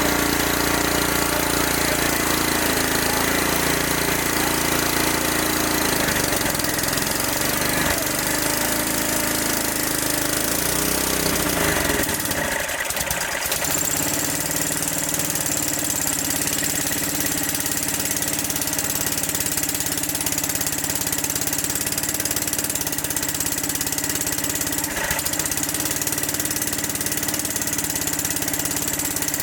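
Small engine driving a generator, running steadily under electrical load. About twelve seconds in its deep low rumble drops away, and it runs on with a faint high whine.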